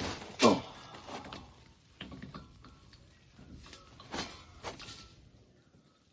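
Clunks and knocks of a propane tank being swapped out on a gas grill, with a short falling squeak about half a second in, then scattered knocks of the cylinder and fittings being handled.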